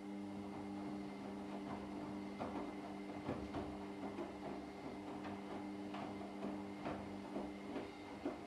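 Front-loading washing machine running its wash cycle: a steady motor hum as the drum turns, with irregular soft knocks and clicks from the tumbling laundry.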